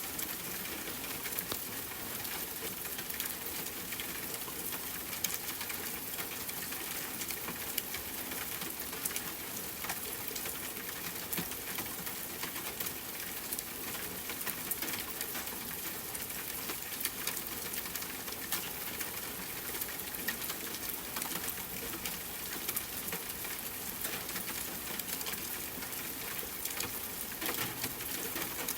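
Steady rain falling on a tent, mixed with a campfire crackling in sharp, scattered clicks.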